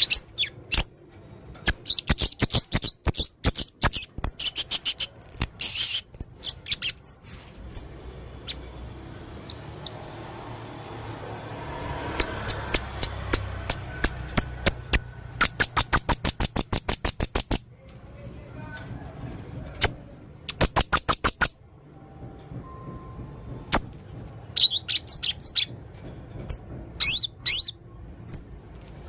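Male blue-crowned hanging parrot (serindit) singing in rapid trains of sharp, high chirps, some runs evenly paced at about ten notes a second, broken by short pauses.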